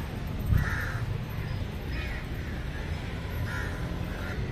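About four short bird calls, spread over the few seconds, heard over a steady low outdoor rumble, with a bump about half a second in.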